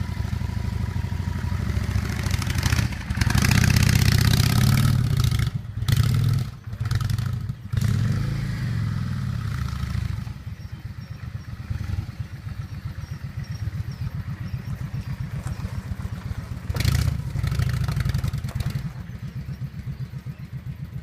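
Motorbike engine running: revved in loud bursts for the first several seconds, dipping out briefly twice around six to eight seconds in, then idling more quietly, with one more rev about seventeen seconds in.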